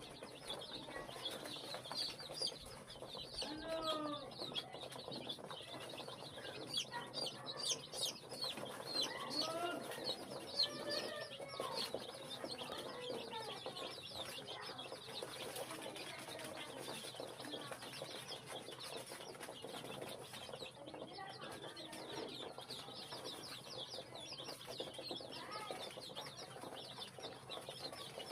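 A brood of ten-day-old native chicken chicks peeping continuously in a dense chorus of short high chirps, with a few lower calls among them in the first half and again near the end.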